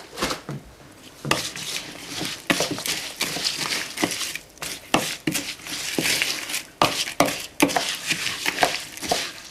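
A spoon stirring and scraping a mix of bird seed and melted lard in a bowl: irregular scrapes and clinks, one after another.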